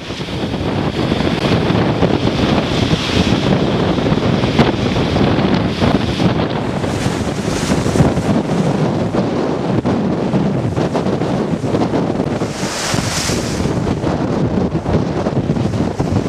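Stormy sea: waves and surf breaking, with strong wind buffeting the microphone. The roar is dense and steady, with a brighter hissing surge about thirteen seconds in.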